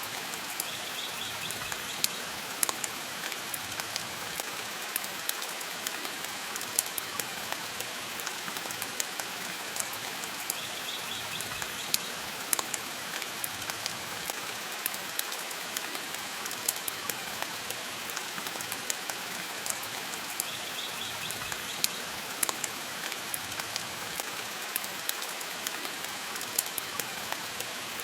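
Steady rain mixed with the crackle of a wood fire in a stone fireplace, with frequent sharp pops scattered through a constant hiss.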